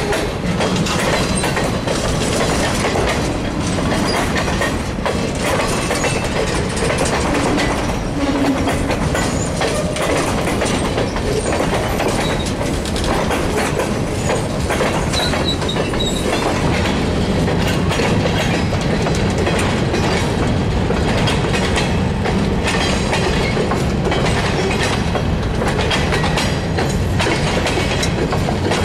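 Railroad cars of a passing train rolling by, their wheels clicking steadily over the rail joints amid continuous rumble.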